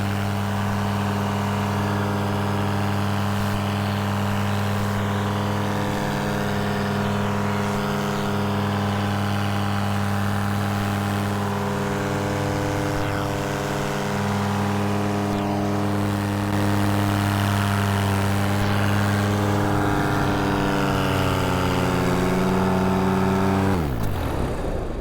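Two-stroke paramotor engine (Polini Thor 202) running steadily at climb power. Near the end its note falls sharply and dies: an engine-out in flight, which the pilot suspects was the motor seizing.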